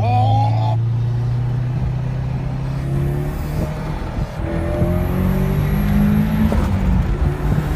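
Ford Sierra Sapphire engine heard from inside the cabin under hard acceleration. A steady drone breaks briefly a little past four seconds in at a gear change, then its note climbs again.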